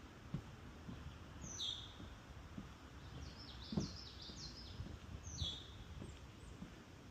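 Wild birds calling in a swamp forest: two high calls that drop in pitch, about a second and a half and five seconds in, with a quick run of zigzag notes between them. Low footstep thuds on the wooden boardwalk underneath, the loudest about four seconds in.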